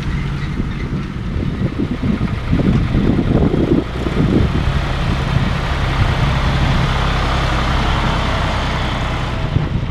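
John Deere 1030 tractor's three-cylinder diesel engine running steadily under load, with bursts of rougher noise between about two and four seconds in.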